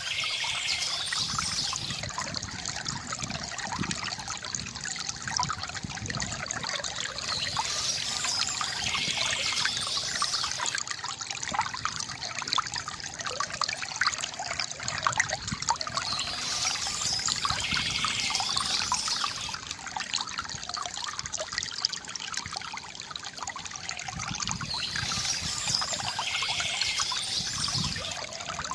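Water trickling and gurgling steadily from a bamboo fountain, with birds chirping in short stretches that come back about every eight seconds.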